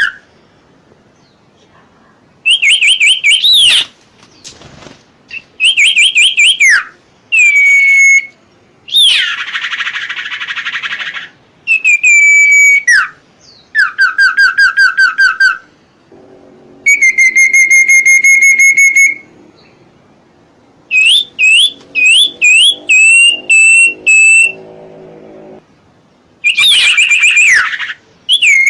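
Common iora (cipoh) song: loud whistled phrases of fast repeated notes, each phrase a second or two long and separated by short pauses. One harsh rasping phrase comes about nine seconds in.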